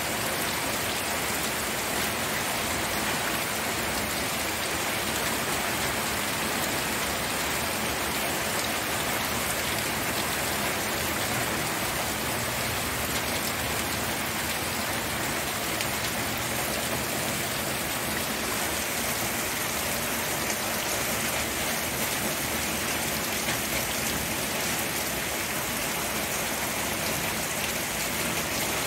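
Steady rain falling, a continuous even hiss of raindrops on surfaces with no let-up.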